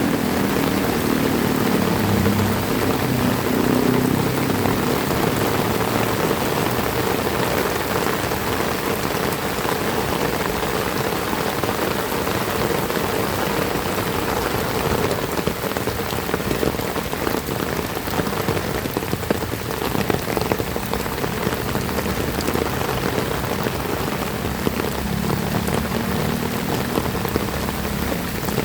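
Heavy rain falling steadily and splashing on surfaces. A low rumble is mixed in at the start and again near the end.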